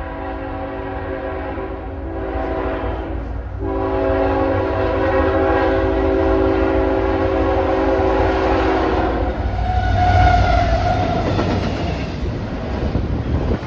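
Locomotive air horn blowing a loud multi-note chord: one blast breaks off about three and a half seconds in, then a longer blast runs until about nine and a half seconds in. A loud rush and low rumble of the train going by follows.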